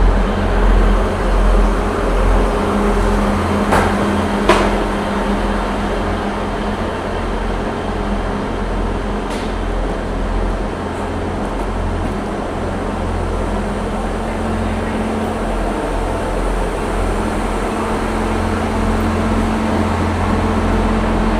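Steady low mechanical rumble with a constant hum, the background noise of a railway station platform. Two sharp knocks come about four seconds in, and another near ten seconds.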